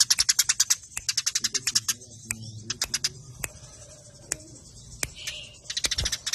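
Eurasian tree sparrows chattering in rapid trains of sharp chirps, many to the second, in bursts of about a second separated by sparser single chirps: fast, tight fighting chatter.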